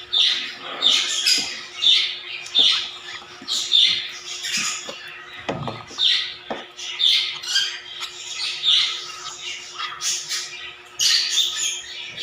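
Young hand-fed African lovebird chicks squawking in short, harsh calls about twice a second: the food-begging calls of chicks at feeding time.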